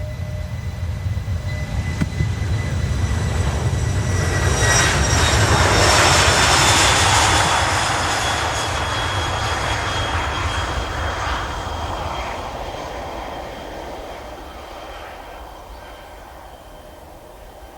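Large four-engine maritime patrol aircraft passing close by: engine noise swells to a peak about six seconds in, then fades away, with high whining tones that slowly drop in pitch as it goes past.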